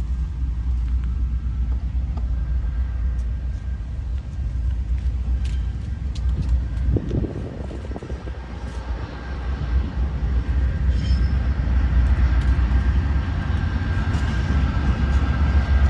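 Diesel freight locomotive and train rumbling steadily, growing louder in the second half as a steady high whine joins near the end.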